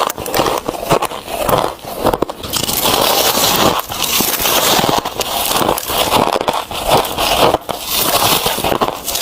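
White ice being bitten and crunched between the teeth: a dense, continuous run of crackles and sharp cracks.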